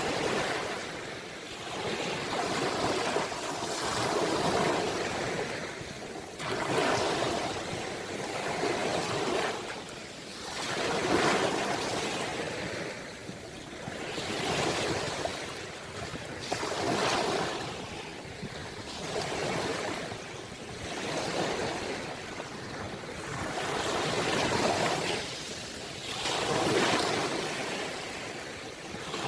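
Ocean waves breaking and washing on the shore, surging and receding in a steady rhythm of a swell every two to three seconds.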